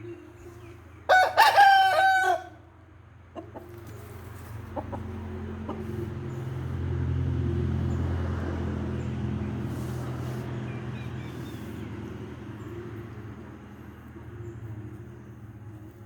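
A rooster crows once, about a second in, lasting just over a second. A low steady hum runs underneath, swelling in the middle and fading towards the end.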